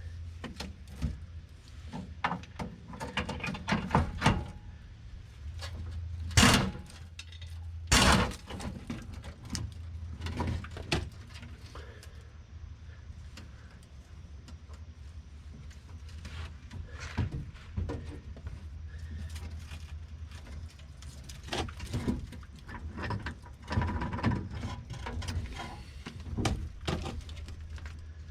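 Clanks, knocks and scrapes of metal from hands and tools working the rusted gas-tank skid plate and its mounting bolts under a Jeep Wrangler. There are two louder bangs, about six and eight seconds in, over a steady low hum.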